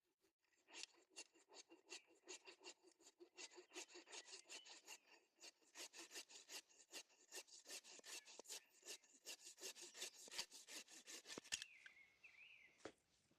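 Faint, rapid back-and-forth strokes of a hand tool working wood, about four a second, which stop abruptly near the end.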